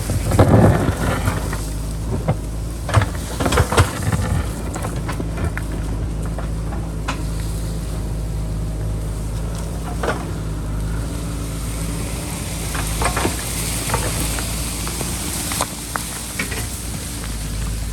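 JCB backhoe loader's diesel engine running steadily as it digs, with scattered knocks and scrapes from the bucket working soil and rock, a cluster of them near the start.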